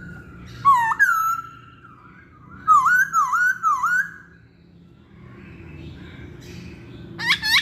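Poksay hongkong laughingthrush singing loud, clear whistles. A held note gives way to a couple of sharp swooping notes, then three down-and-up whistles. After a short pause, a fast run of repeated whistles starts near the end.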